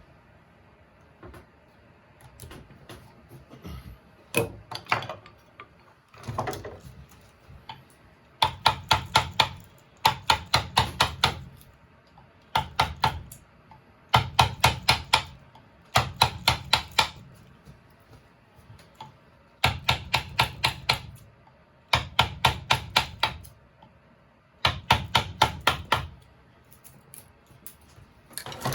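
Wood carving tapping: quick bursts of five or six sharp taps, a burst every second or two, as a carving tool is struck into the wood.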